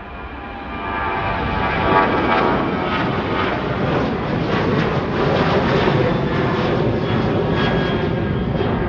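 Departing airliner's engines at takeoff power, growing louder about a second in, then a steady loud rumble with a whine over it.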